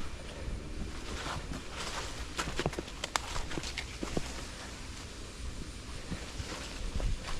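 Footsteps of a hiker on a jungle floor, crunching dry leaves in an irregular series of crackles, thickest from about two and a half to four seconds in.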